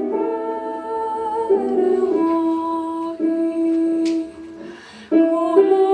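A slow Ukrainian song sung in long held notes. About four seconds in, the sound drops away briefly, then the next phrase starts.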